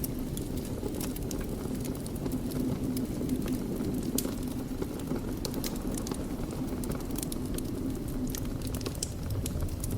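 Wood fire in a fireplace crackling: frequent small, irregular pops and snaps over a steady low rumble of flames.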